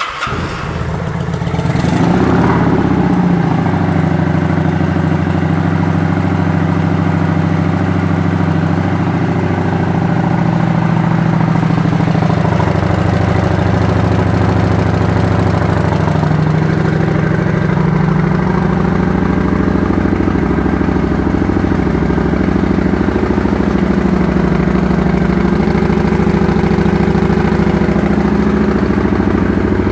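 2009 Kawasaki Vulcan 900 Classic LT's V-twin engine starting, rising briefly about two seconds in, then idling steadily. It idles with a low growl through exhaust pipes that the seller believes are aftermarket with the baffles removed.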